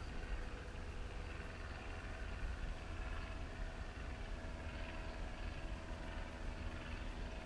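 Steady low rumble of wind on the microphone, with the faint steady hum of a distant motor coming in about halfway through.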